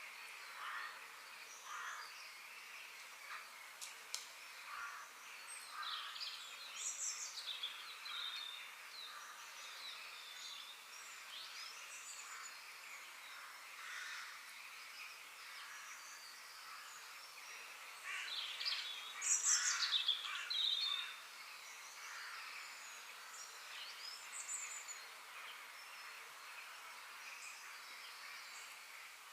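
Several birds chirping and twittering over a faint steady background hiss, with a busier, louder run of calls about two-thirds of the way through.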